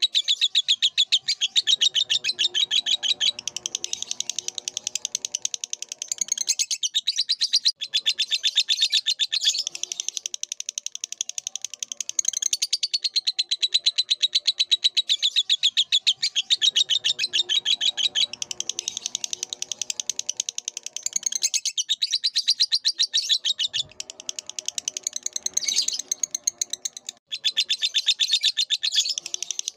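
Lovebird singing a long, fast, chattering trill of rapid chirps that runs almost without pause, breaking off only briefly a few times.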